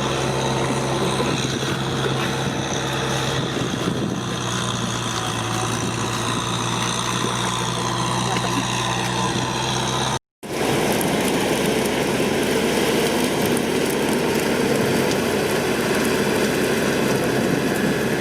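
Tractor engine running steadily. About ten seconds in the sound cuts out for a moment and then resumes, still steady but with a different tone.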